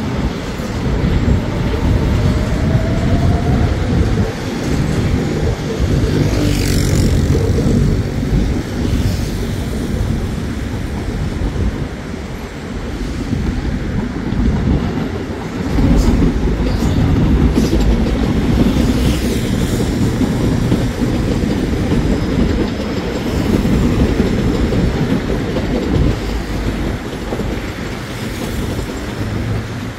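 Electric commuter trains running along the tracks: a steady, heavy rumble of wheels on rail with some clickety-clack over joints. A faint rising whine, typical of a traction motor pulling away, comes in about two seconds in.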